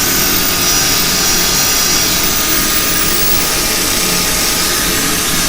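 Axminster wood lathe running steadily while 320-grit sandpaper is held against the spinning cherry workpiece: an even whir with a hiss of sanding.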